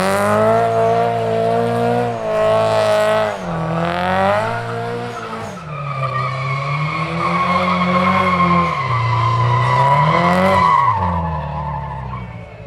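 Subaru Impreza WRX STI's turbocharged flat-four revved hard during a burnout, the revs rising and falling every couple of seconds over tyre screech from the spinning wheels. It then holds at high revs for several seconds before dropping away and fading near the end.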